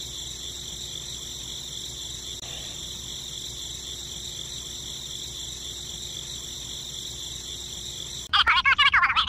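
Steady chorus of crickets chirring, a continuous high trill. About eight seconds in, a loud, high-pitched cartoon-like chattering voice cuts in over it.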